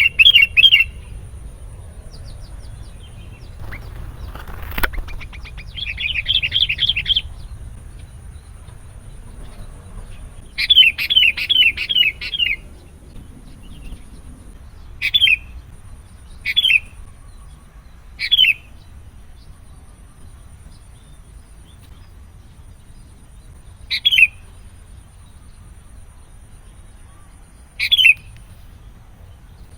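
Sooty-headed bulbul calling: quick runs of bright chattering notes near the start, about six seconds in and about ten seconds in, then single short calls every few seconds.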